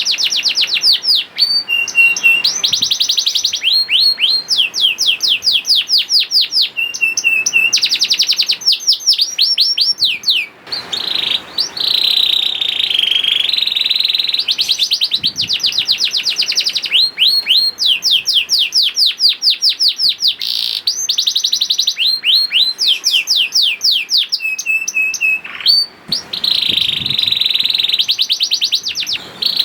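Canary singing continuously in long tours of fast repeated trills and rolls, broken by a few short held whistles. It is a lure song meant to set other canaries singing.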